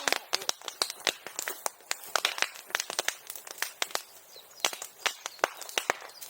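Bonfire of dry bamboo grass and brush crackling, with many irregular sharp pops and snaps.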